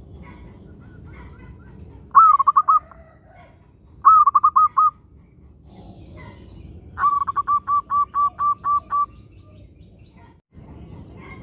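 Zebra dove (perkutut) cooing in phrases of quick staccato notes: short phrases about two and four seconds in, then a longer run of about ten notes around seven seconds in, over a low background hiss.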